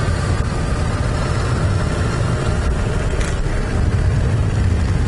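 Steady low rumble of a car in motion, heard from inside the cabin: engine and tyre noise at low speed. A single short click comes about three seconds in.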